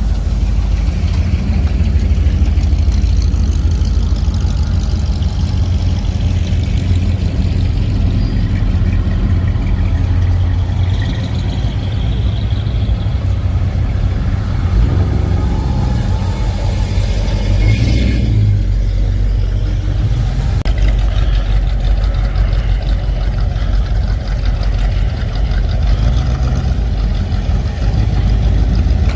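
Engines of classic cars and hot rods running low and steady as they drive slowly past one after another.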